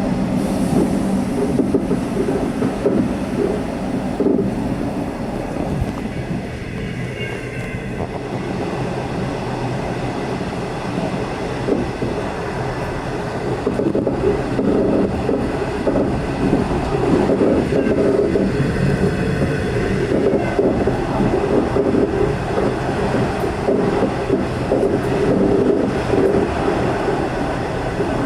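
V/Line locomotive-hauled passenger train running along the line: a steady rumble of wheels and carriage, with a faint high wheel squeal about seven seconds in and again about twenty seconds in.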